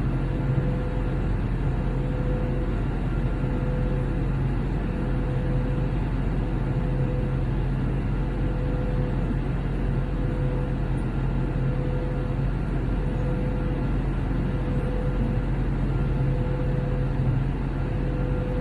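Airbus A321 cabin noise from a window seat: the steady drone of the jet engines and the airflow past the fuselage, with a deep hum and a faint steady tone running through it.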